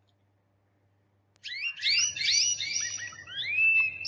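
Canary singing: after near silence, a run of quick chirps and whistled notes that glide up and down begins about a second and a half in.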